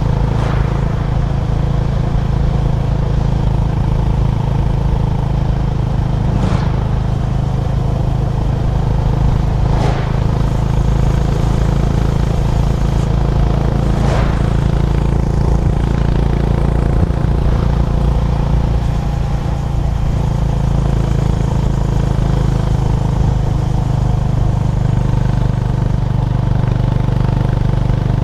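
Honda GB350's air-cooled single-cylinder engine running steadily at cruising speed, with a few brief whooshes over it.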